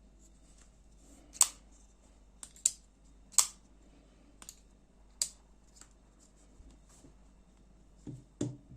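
Sharp, separate clicks of a folding knife and small tools being handled, about seven of them over four seconds, then a few duller knocks near the end.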